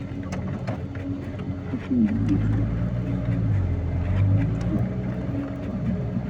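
Truck engine running while driving, heard from inside the cab; about two seconds in it gets louder and a deep hum comes in as it takes more load.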